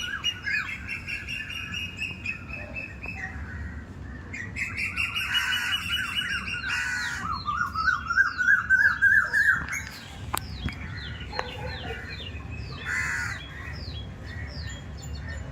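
Several birds chirping and calling at once, with long trills and rapid runs of short downward-sweeping notes overlapping.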